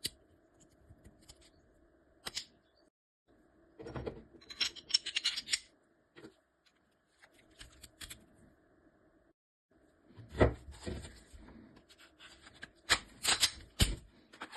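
Handling noise and clicks of a Glock 17 Gen5 pistol being put back together: scattered snaps and rubbing of the slide and parts being fitted, the loudest snap about ten seconds in and a quick run of sharp snaps near the end.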